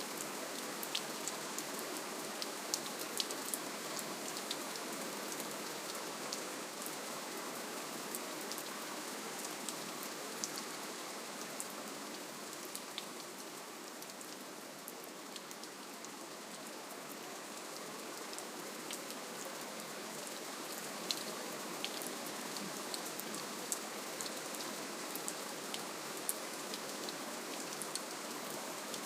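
Steady rainfall: an even hiss with many small drop ticks, easing a little in the middle and picking up again near the end.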